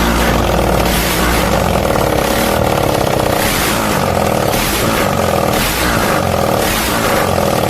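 Apache motorcycle's engine running loud, with a regular pulsing.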